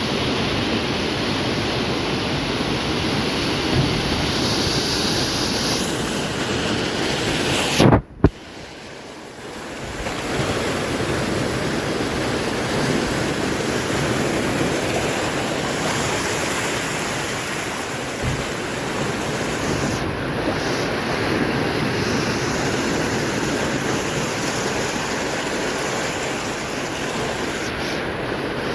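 Heavy sea swell surging and breaking, with wind buffeting the microphone. A sharp knock comes about eight seconds in, after which the noise drops away briefly before the surf sound returns.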